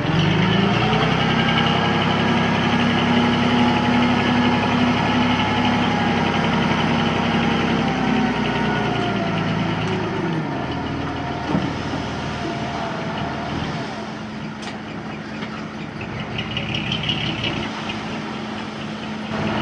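Heavy diesel engine of an earthmoving machine revving up and working hard. About halfway through it drops back to a lower, steady run.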